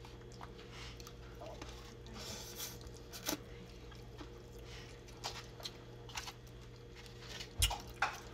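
Close-up mouth sounds of a person chewing spaghetti and chicken, with scattered short wet clicks, the loudest coming with a low thump near the end. A faint steady hum sits underneath.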